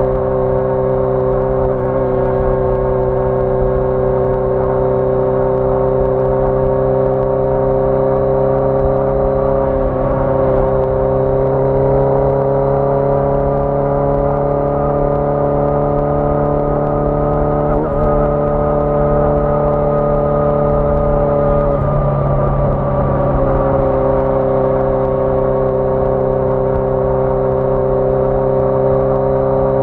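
1981 Yamaha XJ650 Maxim's air-cooled inline-four engine running at a steady cruise. Its note rises slightly about ten seconds in and drops back a little past twenty seconds.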